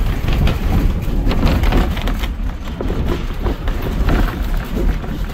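Narrow gauge railroad train rolling along the track: a steady low rumble with scattered clicks and knocks from the wheels and cars.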